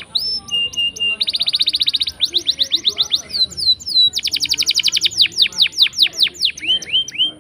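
Domestic canary singing a continuous song of fast trilled rolls, each a run of rapidly repeated notes, alternating with series of quick down-slurred notes and a brief steady whistle near the start. The song breaks off just before the end.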